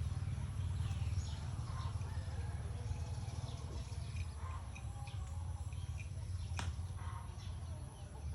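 Birds chirping here and there over a steady low rumble, with a single sharp click about six and a half seconds in.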